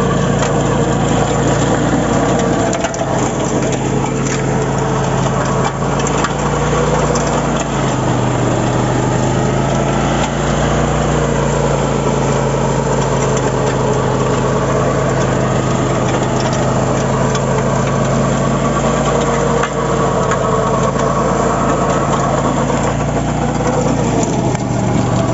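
Engine of a 12 hp mini power tractor running steadily, its pitch shifting slightly up and down a few times as the engine speed changes.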